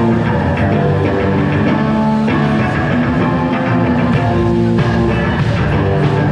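Rock music with electric guitar playing a riff of held notes over bass.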